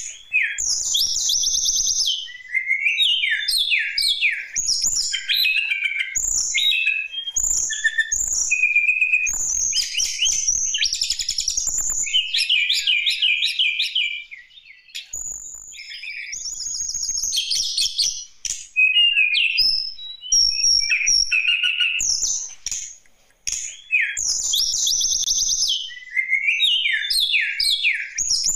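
A tledekan gunung (a songbird) singing a long, varied song of quick chirps, trills and rapid phrases with only brief pauses. It is the loud, chatty singing that bird keepers play to provoke caged birds into song.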